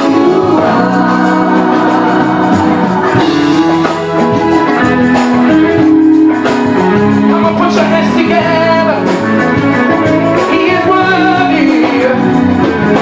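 Live gospel music: a band playing with voices singing long held notes.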